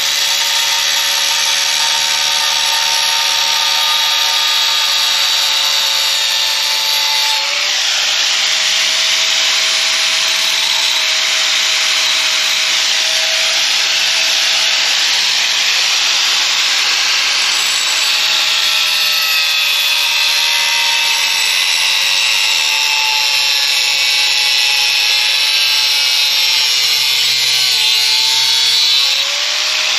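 Power tool with an abrasive wheel grinding through metal exhaust tubing: a steady motor whine over a loud grinding hiss, its pitch sagging and recovering near the end as the tool is pressed into the work.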